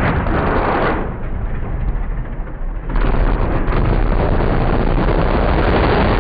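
Monster truck's V8 engine revving hard: a sudden loud burst lasting about a second, then from about three seconds in a sustained full-throttle run.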